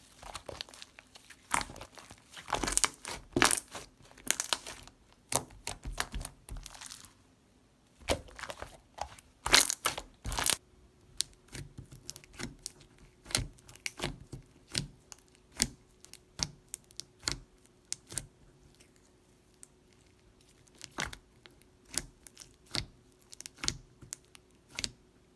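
Mixed water-jelly slime being squished and pressed by hand, giving crackling clicks and pops. They come in dense runs for the first ten seconds or so, then as spaced-out single clicks.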